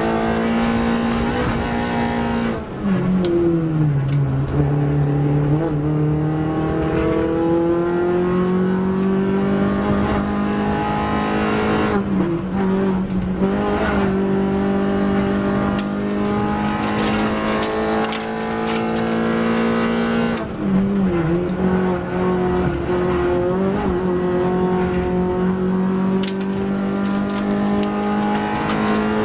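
MINI Cooper race car's four-cylinder engine heard from inside the cabin under hard running. Its pitch drops sharply about three seconds in and again around twelve and twenty seconds, and climbs steadily between the drops.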